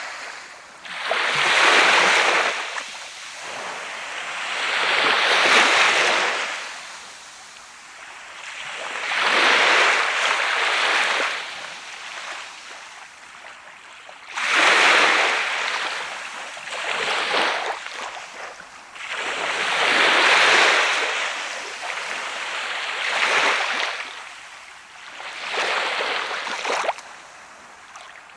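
Sea waves breaking on a beach, about seven surges in turn, each swelling up and washing away over a couple of seconds.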